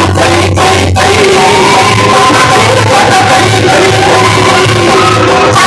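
Loud music with singing played through a large sound-system speaker rig, with a heavy pulsing bass.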